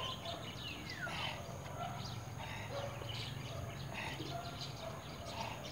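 Birds chirping in short scattered calls, with one longer call falling in pitch about a second in, over a steady low background hum.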